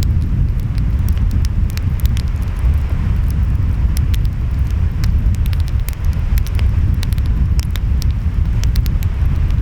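Wood fire crackling and popping with many irregular sharp snaps, over a steady low rumble of ocean waves and wind.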